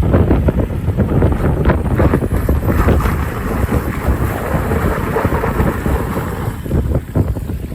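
Strong wind buffeting the microphone: a loud, gusty low rumble throughout, with a broader hiss swelling in the middle and easing off after about six seconds.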